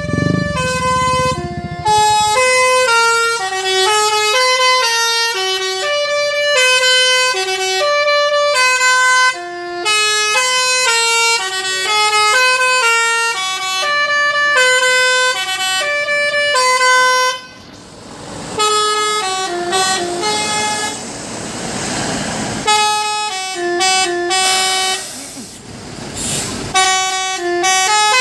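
Truck basuri horn, a set of tuned musical horns, playing a tune in quick stepped notes, after a low air-horn chord at the start. Past the middle the tune breaks off and a rushing noise rises, then the tune comes back in short phrases.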